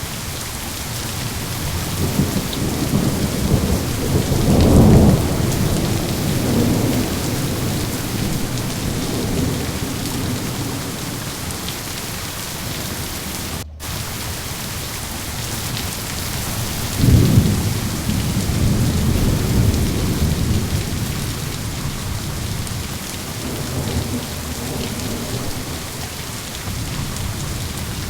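Steady heavy rain with rolling thunder, the rumbles swelling about five seconds in and again around seventeen seconds in. There is a momentary dropout in the sound about halfway through.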